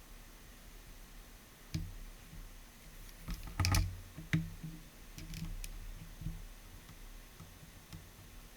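Irregular plastic clicks and knocks from hands handling and working on a vacuum cleaner's parts, with a louder burst of knocks a little before the middle.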